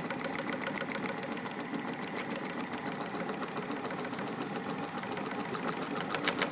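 Motor-driven ceramic-magnet rotor test rig spinning, with a rapid, even mechanical ticking that grows louder near the end.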